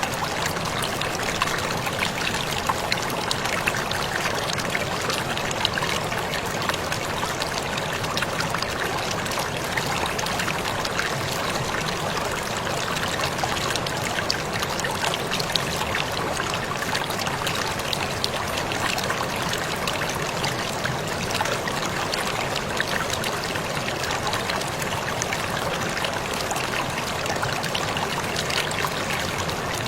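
Waterfall splashing and pouring steadily, a constant dense rush of water with fine crackling splashes throughout.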